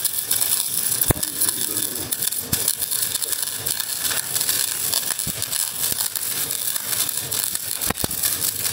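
Steady electric arc-welding crackle on a broken steel leaf spring, with two sharp knocks, one about a second in and one near the end.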